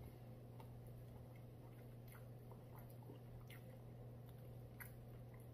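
A person chewing a bite of fried chicken sandwich, faint, with scattered soft clicks of the mouth, over a steady low hum.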